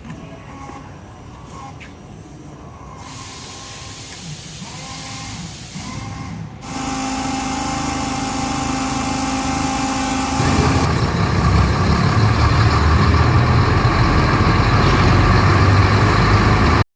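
Diesel generator set running. It comes in suddenly loud about six and a half seconds in, and grows louder and deeper again near eleven seconds.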